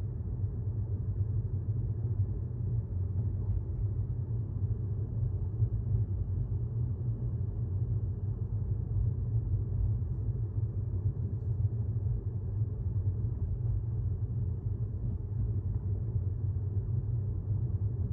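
Steady low road and tyre rumble heard inside the cabin of a moving 2018 Tesla Model S 75D, an electric car.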